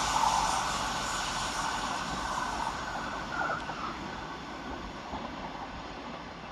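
Class 700 electric multiple unit running away from the platform, its running noise fading steadily as it recedes. A faint high whine dies out about four seconds in.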